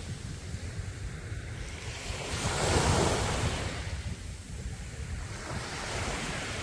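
Sea waves breaking and washing up a beach, one wave surging loudest about halfway through, with wind buffeting the microphone.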